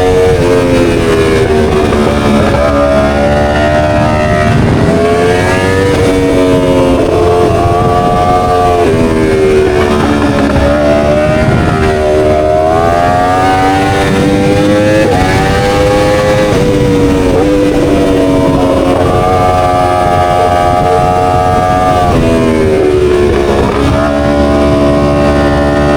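Motorcycle engine accelerating through the gears: its pitch climbs, then drops suddenly at each shift. It holds a steady high pitch for a few seconds about three quarters of the way through.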